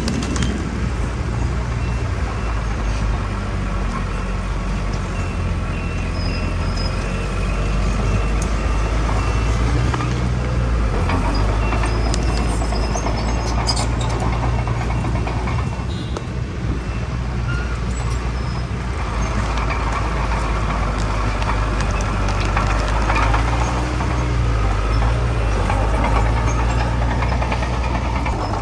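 Heavy diesel earthmoving machinery, dump trucks and a bulldozer, running steadily under load. A faint high beep repeats evenly through roughly the first half.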